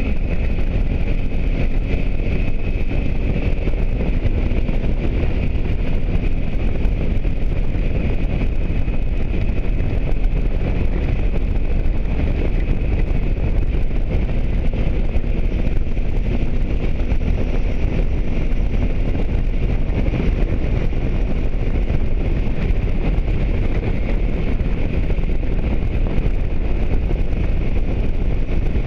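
Steady wind rush buffeting the microphone of a moving motorcycle, with the engine running underneath.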